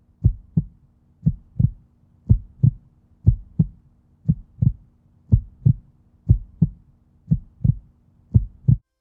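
Heartbeat sound: paired low thumps (lub-dub) about once a second, nine beats over a faint steady hum, stopping just before the end.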